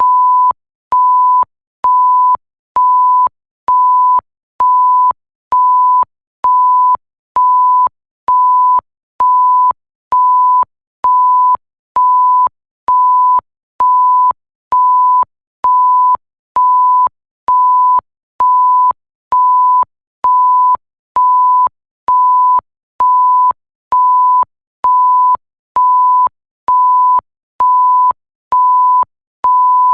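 Electronic censor bleep: a pure 1 kHz tone beeping about once a second, each beep about half a second long, with a faint click as each one switches on and off.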